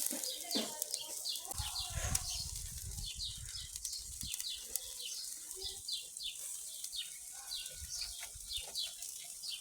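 Small birds chirping: short high chirps that slide down in pitch, repeating about twice a second. A brief low rumble comes about two seconds in.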